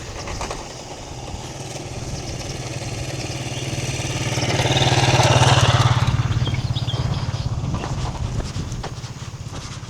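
A motor vehicle's engine running as it approaches, passes close about five to six seconds in, and fades away.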